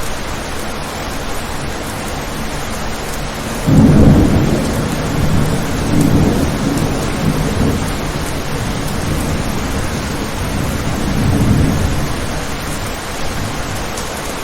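Steady rain with a roll of thunder: a sudden low rumble breaks in about four seconds in, swells again twice and slowly dies away under the hiss of the rain.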